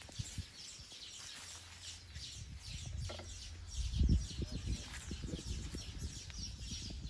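Small birds chirping: a continuous run of short, high, falling chirps, over a low rumble that swells about four seconds in.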